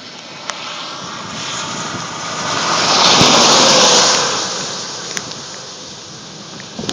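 A vehicle passing close by: a rush of tyre and engine noise swells over about two seconds, peaks near the middle and fades away.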